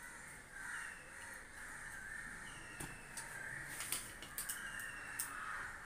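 Bird calls repeated throughout, with a few sharp clicks and taps about halfway through.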